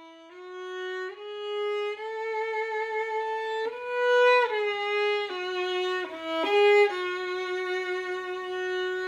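Solo violin playing a slow melody, sustained notes with vibrato moving stepwise.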